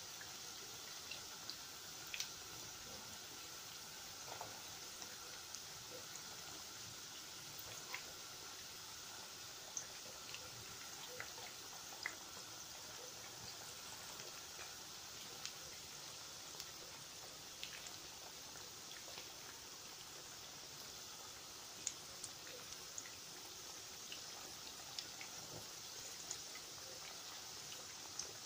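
Pork meatballs frying in a pan: a faint, steady sizzle with scattered small pops and crackles.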